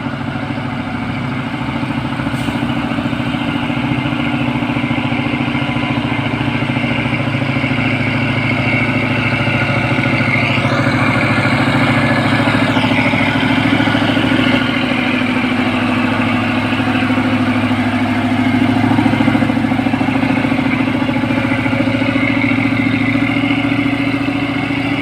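Heavy diesel truck engine running steadily as the truck climbs a steep hill, with a brief rising and falling engine note from another vehicle passing about ten seconds in.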